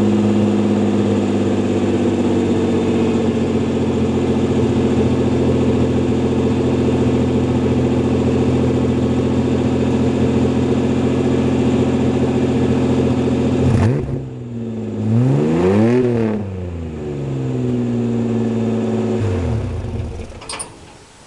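1994 Ford Ranger's 4.0L OHV V6 idling on a cold start through catalytic converters and a straight 2.5-inch pipe with no muffler. The idle settles slightly lower a few seconds in. Two-thirds of the way through the engine is blipped once, rising and falling back to idle, then near the end it is shut off and winds down, followed by a short click.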